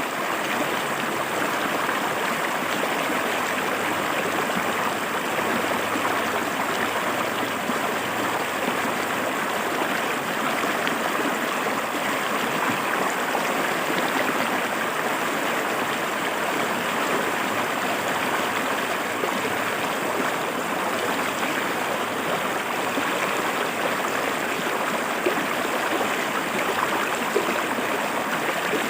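A shallow river flowing over rocks: steady, even rushing and gurgling of water.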